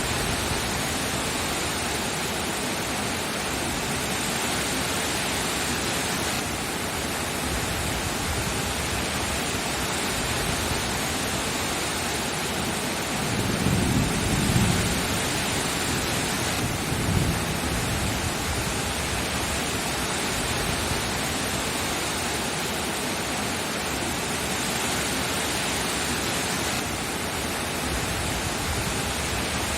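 Steady rain falling, an even rushing hiss, with a low rumble of thunder swelling about halfway through and a shorter, fainter one just after.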